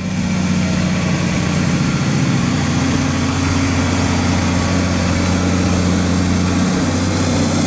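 Diesel engine of a Kenworth K104B truck running steadily at an even, unchanging pitch.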